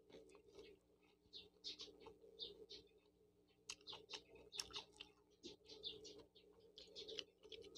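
Faint close-up chewing of tom yum noodles: a string of short, wet smacks and clicks from the mouth, a few a second, over a low steady hum.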